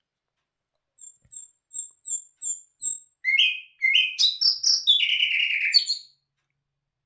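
A songbird singing: after a second's pause, a run of about six short, high notes, then a louder, faster phrase of rising whistled notes that ends in a longer note.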